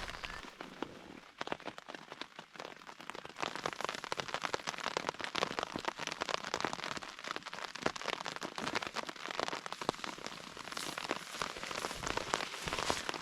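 Rain falling, with a dense, irregular patter of drops striking a surface that grows heavier a few seconds in.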